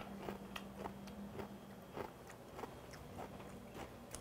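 A man chewing raw bluefin tuna sashimi close to the microphone: soft, irregular wet mouth clicks about every half second, over a faint steady low hum.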